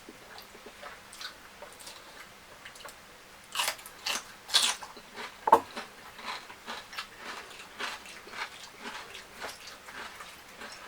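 A person chewing food close to the microphone, with a few loud crunches about four to five seconds in, then steady, softer chewing.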